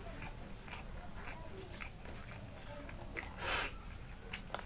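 Close-up eating sounds: a mouthful of rice being chewed, with small wet mouth clicks and one louder, short noisy sound about three and a half seconds in.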